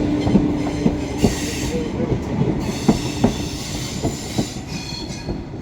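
A train running slowly through station pointwork: its wheels give irregular clacks over the rail joints and crossings, with high-pitched flange squeal in two stretches. It grows quieter toward the end.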